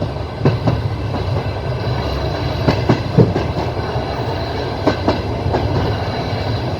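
Passenger train rolling along, its wheels clacking over rail joints in quick pairs every couple of seconds above a steady low rumble, heard from inside the carriage.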